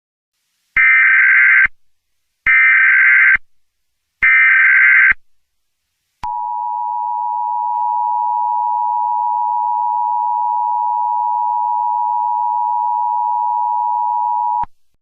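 Emergency Alert System alert opening. First come three short bursts of SAME header data, each a harsh buzzy electronic screech lasting about a second. Then the two-tone EAS attention signal, a steady grating tone, is held for about eight seconds before cutting off.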